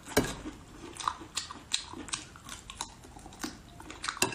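A person chewing peeled prawn meat: an irregular run of short wet smacks and mouth clicks, two or three a second.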